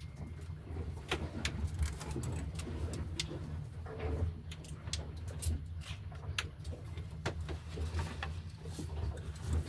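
Scattered light clicks and knocks of bilge pump parts being handled and fitted inside a boat's hull, over a steady low rumble.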